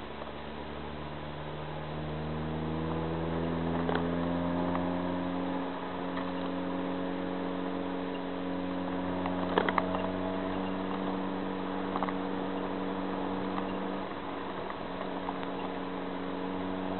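Honda Prelude 2.2 VTEC's four-cylinder engine heard from inside the cabin, rising in revs over the first five or six seconds as the car accelerates, then holding a steady drone at cruising speed. A few sharp clicks stand out, the loudest a cluster about ten seconds in.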